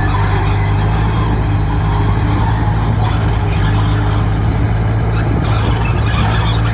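Large diesel engine of heavy machinery running steadily at an even speed, with a strong low hum.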